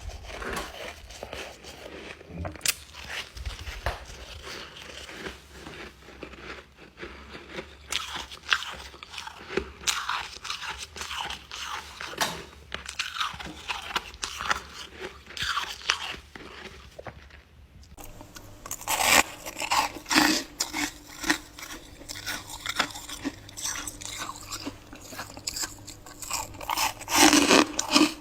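Ice being bitten and chewed close to the microphone: a long run of sharp, irregular crunches and crackles. About two-thirds of the way in, the crunching becomes brighter and louder over a faint steady hum.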